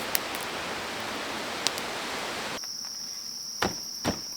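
A steady, even hiss with a few sharp clicks runs until a little past halfway. Then it cuts to insects droning on one steady high note, with two thumps near the end.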